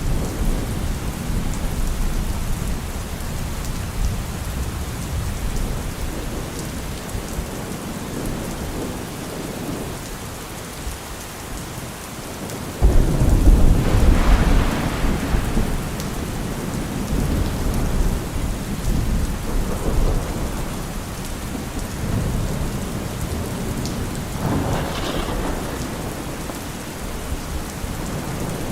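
Steady rain with low rolling thunder. A sudden loud thunderclap breaks about 13 seconds in and rumbles for a few seconds, and a weaker roll of thunder follows near the end.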